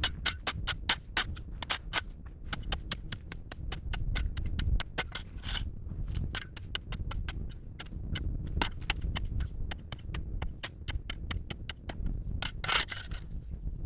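Fire crackling with many sharp, irregular pops over a low rumble, and a short hiss near the end.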